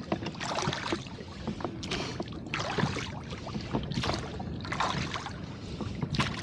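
Rowboat under way in light chop: water splashing and slapping around the hull in short repeated bursts, roughly one a second, over a low steady rush of wind and water.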